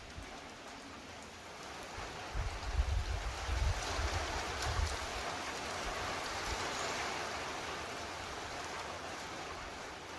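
Torrential thunderstorm rain pouring steadily. It swells about two seconds in as wind gusts hit, with choppy wind rumble buffeting the microphone.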